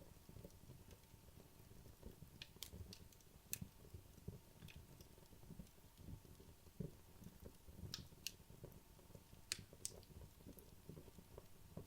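Wood logs burning in a fireplace, crackling quietly: a soft low rustle with scattered sharp pops and snaps, a few of them louder, in the middle of the burn-down.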